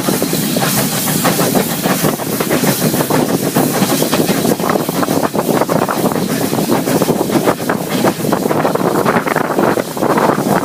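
Steam-hauled heritage train running: a steady, loud rush of rail clatter and hiss.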